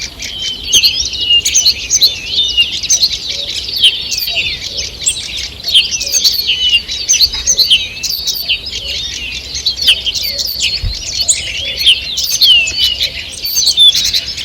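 Morning chorus of many songbirds: a dense, continuous overlap of chirps, twitters and trills.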